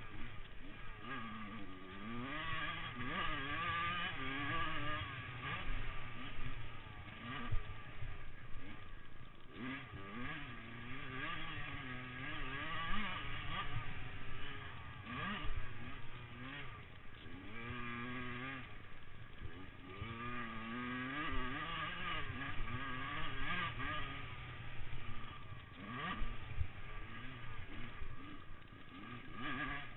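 Motocross motorcycle engines revving, their pitch rising and falling over and over as the throttle is opened and shut through gear changes.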